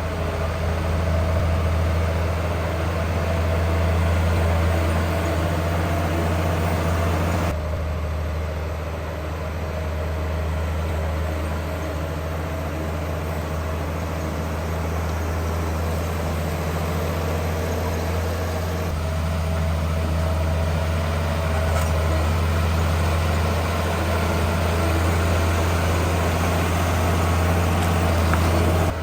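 Heavy diesel engine of earthmoving machinery running steadily with a deep, low hum. The sound shifts abruptly twice.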